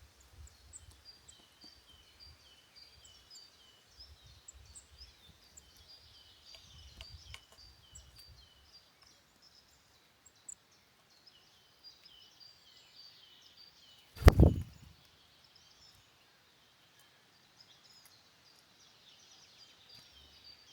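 Woodland birds chirping and singing throughout, short high notes repeated many times, with low wind gusts on the microphone in the first half. About fourteen seconds in comes one loud, dull thump, the loudest sound of all.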